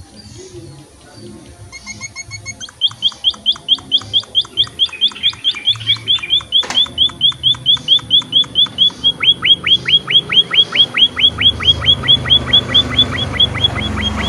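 A munia (emprit) finch calling: a fast run of short, high, downward-sliding notes, about five a second. It starts about three seconds in after a few faint notes and grows steadily louder.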